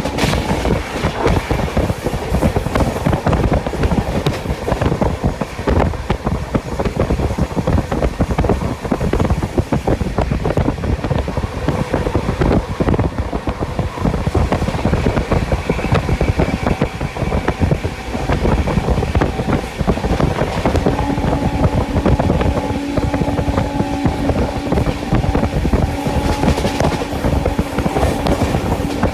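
Express passenger train running at speed, heard from inside a coach: a steady rumble with a dense, irregular clatter of wheels over the track. A steady hum joins in about two-thirds of the way through.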